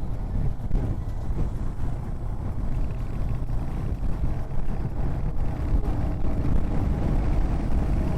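Royal Enfield Hunter 350's single-cylinder engine running steadily at cruising speed on the move, with wind noise on the microphone.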